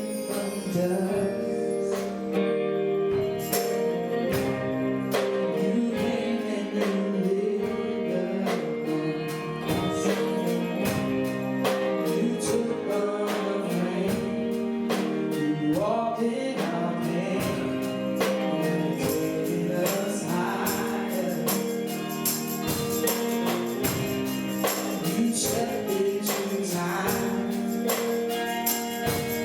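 Gospel worship music from a live band: sustained chords with a steady beat of percussion strikes, tambourine among them, and singing that comes in more plainly in the second half.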